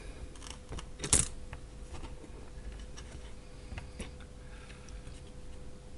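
Small scattered clicks and taps of parts and wires being handled while the battery pack is assembled, one sharper click about a second in, over a faint steady hum.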